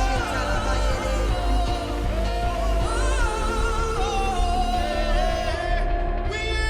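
Live worship music: a singing voice sliding between held notes over a band with a steady heavy bass, the accompaniment changing near the end.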